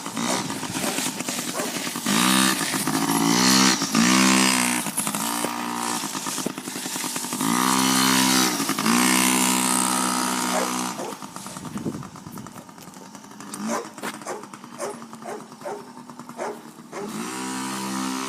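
Small 50cc motorbike engine being ridden, its note rising and falling with the throttle in several spells. It drops away to a quieter run for several seconds after the middle, then comes back up near the end.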